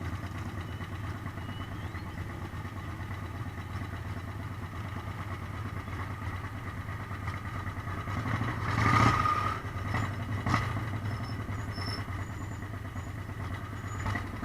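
Motorcycle engine running steadily at low speed, with a louder swell about nine seconds in.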